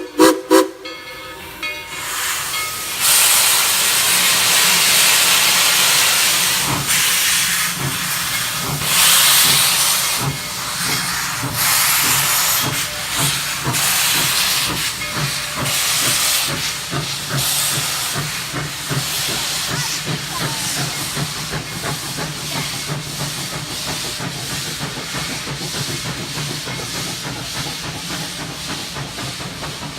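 Steam locomotive No. 190 standing and venting steam with a loud, steady hiss that starts about two seconds in and slowly eases, over a faint low rhythmic pulsing.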